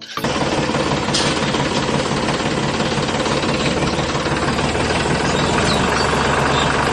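An engine running steadily with a fast knocking rattle, starting and stopping abruptly.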